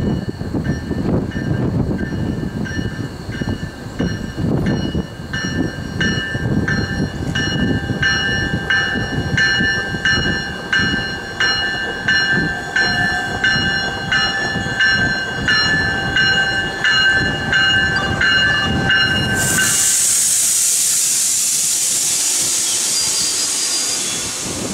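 GO Transit bilevel commuter train rolling in over the rails, its bell ringing about twice a second over the rumble of the wheels. About twenty seconds in the bell stops and a loud, steady hiss of air starts as the train comes to a stand, typical of the air brakes venting.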